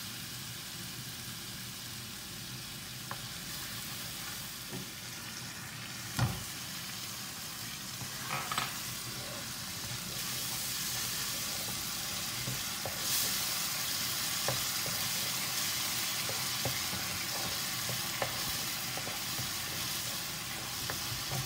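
Tomato purée sizzling in hot oil and ginger-garlic masala in a nonstick kadai, while a wooden spatula stirs it in, scraping and tapping the pan. The sizzle grows louder in the second half, and there is a single knock of the spatula about six seconds in.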